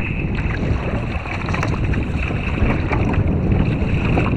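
Wind buffeting the microphone on a kayak, a steady low rumble, with scattered small ticks.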